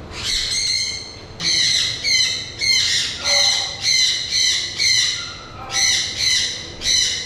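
Cockatoo squawking: a run of about a dozen harsh, screeching calls repeated roughly every half second.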